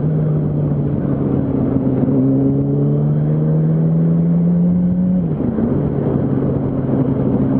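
Yamaha R1's inline-four engine pulling under light throttle, its pitch rising slowly for about five seconds. The pitch dips at a gear change, then runs on steadily.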